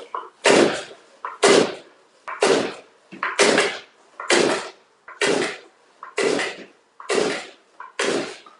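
Two-stroke leaf blower being pull-started from cold: the recoil starter cord is yanked about once a second, nine pulls in a row, each a short rasping crank that dies away. The engine does not catch between pulls.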